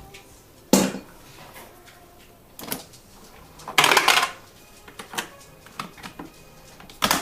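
Household objects being handled: a sharp knock, a small click, a half-second scrape or clatter about four seconds in, and another knock near the end.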